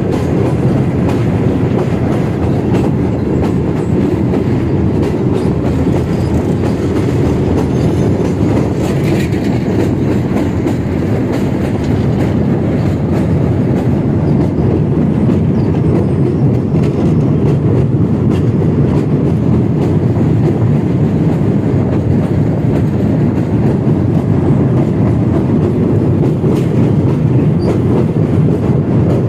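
Train running at steady speed, heard from aboard: a continuous, even rumble of wheels on the rails. In the second half the train is crossing a steel truss bridge.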